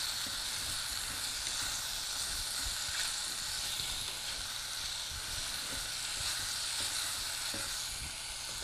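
Straw and king oyster mushrooms sizzling steadily in hot oil with browned leek in a clay pot as they are sautéed and stirred with chopsticks.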